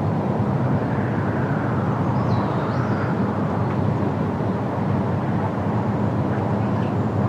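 Steady outdoor background rumble, heaviest in the low range, with a bird chirping briefly about two and a half seconds in.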